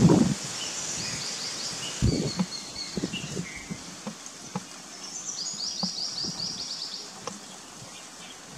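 Outdoor ambience of small birds chirping in quick high-pitched runs, the longest a series of about ten rapid notes a little past the middle, with scattered soft ticks and a brief rustle about two seconds in.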